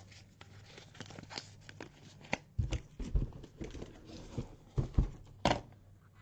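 Cardboard card boxes and their plastic wrapping being handled on a desk: crinkling and rustling, with several dull knocks in the second half as the boxes are moved and set down. A faint steady electrical hum runs underneath.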